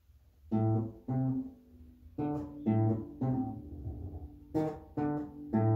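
Plucked string instrument, likely a guitar, playing a slow picked passage: single notes struck one after another, each ringing and fading, starting about half a second in.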